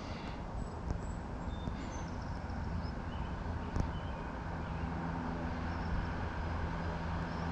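A steady low rumble with faint, short high-pitched whines that rise and fall several times, typical of an RC truck's brushless motor revving as it runs.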